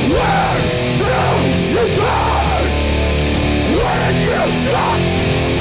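Hardcore punk band playing live: distorted electric guitars, bass and drums, with guitar notes repeatedly sliding up and down.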